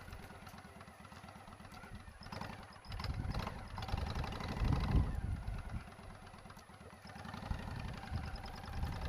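Motorcycle engine running at low speed. It gets louder about three seconds in, eases off, and rises again near the end as the throttle is opened and closed.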